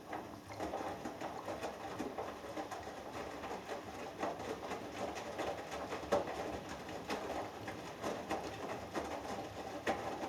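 Hoover Dynamic Next front-loading washing machine's drum starting to tumble again after a pause, wet laundry sloshing and dropping with irregular soft knocks.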